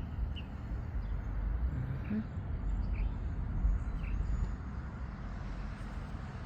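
Outdoor garden ambience: a low, uneven rumble with a few short, high bird chirps scattered through it.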